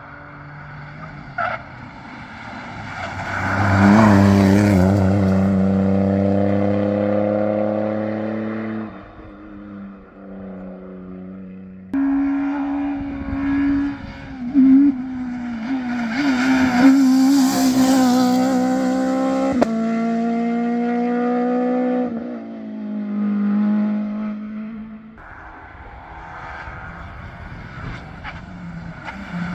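Rally cars going past at full throttle on a closed stage, engine pitch climbing and dropping at each gear change. One passes close about four seconds in. After an abrupt change around twelve seconds another car goes by, loudest near seventeen seconds.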